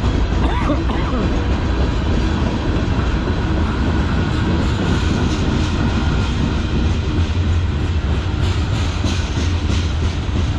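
Freight cars of a CN manifest train rolling past: a steady, loud rumble of wheels on rail with clattering, sharper around eight to nine seconds in.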